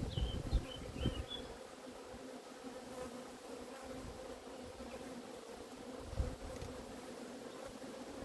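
Honeybees buzzing in a steady hum over an open hive, the colony stirred up by the inspection. A few dull bumps near the start and about six seconds in.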